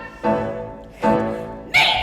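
Piano accompaniment playing three separate closing chords, each struck and left to fade, as the song ends.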